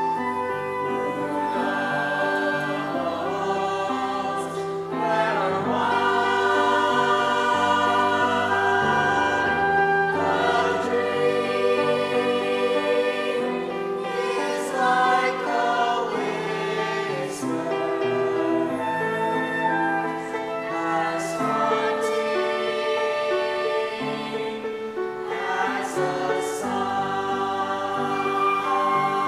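A choir singing a song with instrumental accompaniment, over a bass line that moves from note to note.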